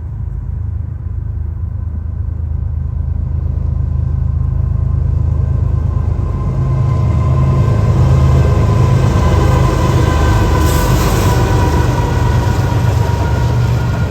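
Train approaching, its heavy low rumble growing louder over the first eight seconds or so, then holding steady.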